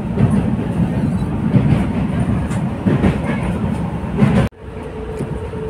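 Passenger train running at speed, a loud steady rumble of wheels and coach on the track with faint clicks. It cuts off abruptly about four and a half seconds in, giving way to a quieter steady hum.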